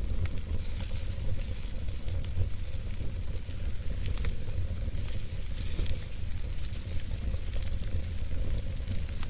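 Wood fire burning in a fireplace: a continuous hiss with irregular small crackles and pops over a low rumble.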